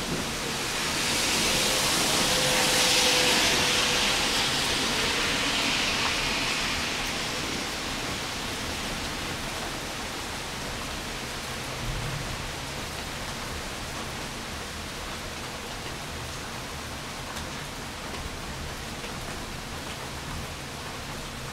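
Steady rain falling on a wet street and yard, an even hiss. In the first few seconds the hiss swells louder and higher, then fades back down to a steady level.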